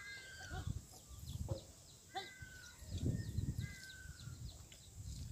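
Birds calling: three drawn-out, steady calls with short chirps between them, over low rumbling thumps.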